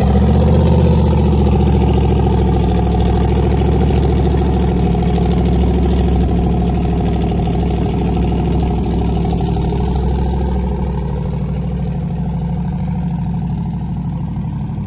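A car engine idling steadily and loudly, a low, even rumble that eases off slightly near the end.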